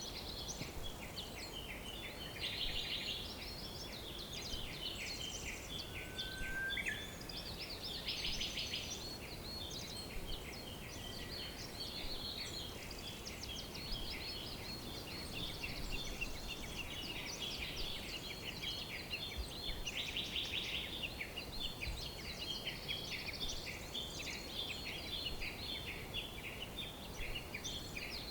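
Many birds chirping and trilling at once in a dense, unbroken chorus of high, quick calls, over a steady low hiss.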